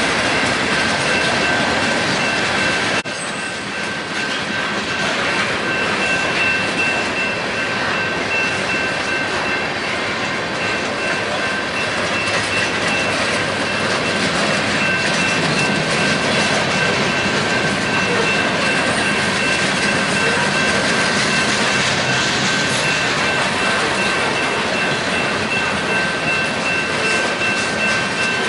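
Freight train cars rolling past at close range: a steady rumble and rattle of wheels on rail, with a steady high-pitched ringing squeal from the wheels. There is a sudden break about three seconds in.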